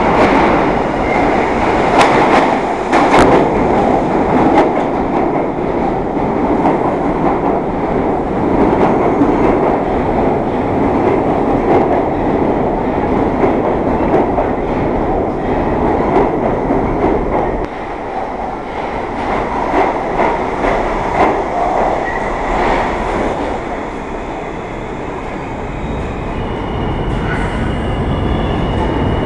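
New York City subway train running through an underground station, a steady rumble with wheels clacking over rail joints. The noise drops suddenly about two-thirds of the way through, and a thin high whine comes in near the end.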